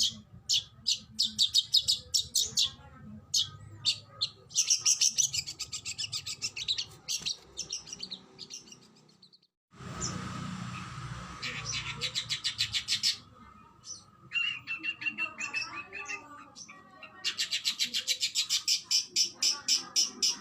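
Oriental magpie-robin (kacer) singing fast trains of sharp, rapidly repeated high notes, the rapid-fire 'tembakan' phrases, with quieter warbling between them. The song cuts out completely for under a second about ten seconds in, then resumes.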